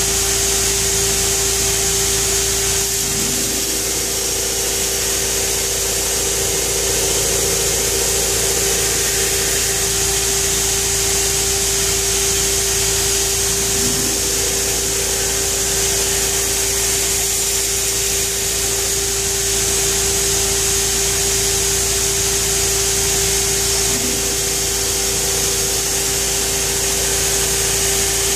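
Pheer 327 2x72 belt grinder running with steel pressed hard against the moving abrasive belt: a steady hum under a constant grinding hiss.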